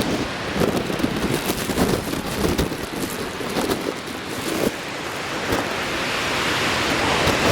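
Typhoon wind gusting hard over the microphone, with rough surf beneath. Near the end a hiss of rushing water swells up.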